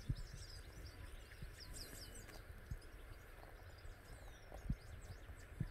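Faint chirping of small birds, many short high calls throughout, over a low outdoor background hum, with a few soft low thumps.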